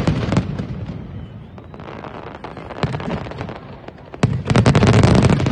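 Aerial fireworks going off: a dense volley of bangs and crackles dies away into rumbling echoes, a lone pop follows, and about four seconds in another sudden, loud volley of rapid bangs breaks out.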